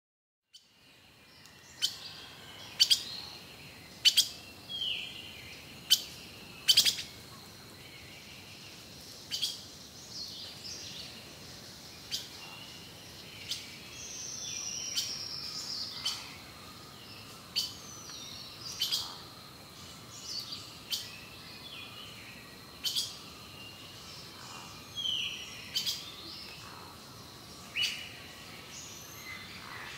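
Songbirds calling: sharp, loud chip notes every second or two, mixed with short whistled notes that slide down in pitch.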